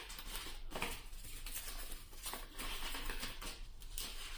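Trading cards being handled and flicked through, a light rustling with small dry clicks.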